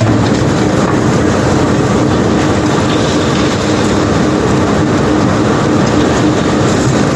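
Steady, continuous rattle and rumble of cobblestones being unloaded from a barge by machinery, with a steady machine hum underneath.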